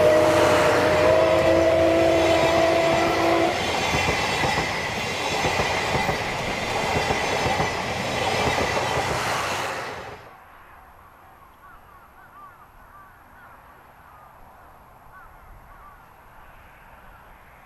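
Locomotive chime whistle sounding a chord of several tones, which stops about three seconds in, over the rumble and clatter of the passing train. About ten seconds in, the train noise cuts off and gives way to a much quieter background with faint chirps.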